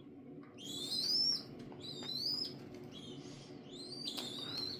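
A hand-reared young bird giving a run of high begging calls, four or five in a row, each rising in pitch and lasting about half a second to a second: the bird is hungry and asking to be fed.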